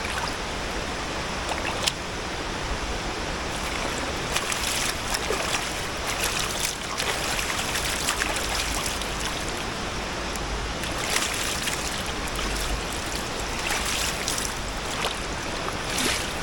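River water flowing steadily over a shallow run, with brief splashes now and then.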